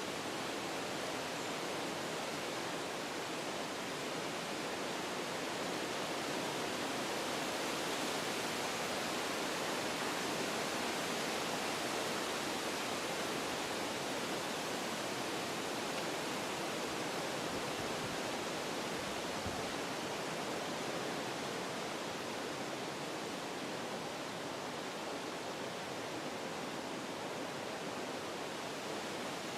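Wind blowing through forest trees, a steady rush of stirring leaves and branches that swells a little about a third of the way in, then eases.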